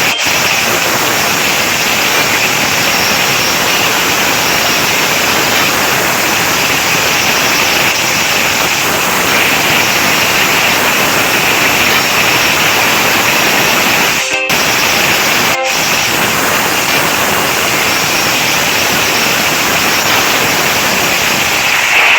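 Steady, loud rushing noise without a clear pitch, broken by two split-second dropouts a little past the middle.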